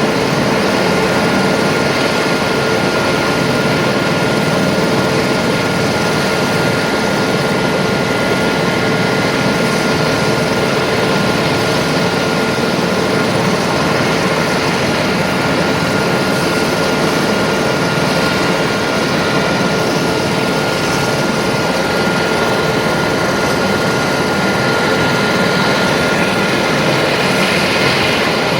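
Rescue helicopter's turbine engines and rotor running steadily: a continuous wash of engine and rotor noise with a steady high turbine whine, holding the same level throughout.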